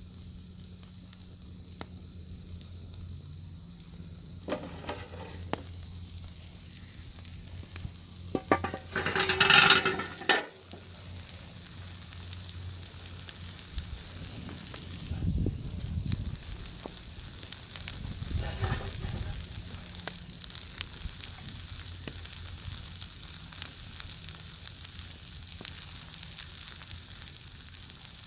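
Bacon sizzling in a pan over a wood fire: a steady high frying hiss with many small pops and crackles. A louder noisy swell comes about nine seconds in and lasts about a second and a half, with two smaller ones later.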